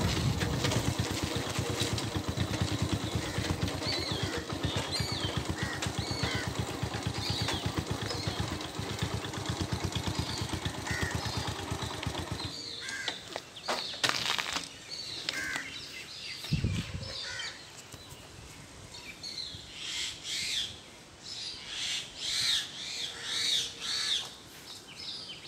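Birds chirping and calling over a low rumbling noise on the microphone. The rumble drops away about halfway through, and the bird calls come louder and more often near the end.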